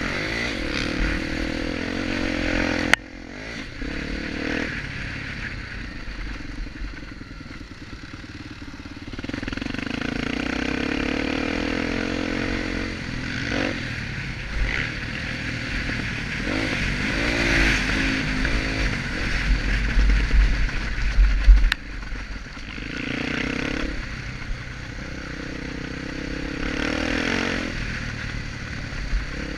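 Honda XR250 Tornado's single-cylinder four-stroke engine revving up and easing off, its pitch rising and falling, while the bike is ridden around a dirt motocross track. Two sharp knocks stand out, about three seconds in and near twenty-two seconds, amid clattering over the rough ground.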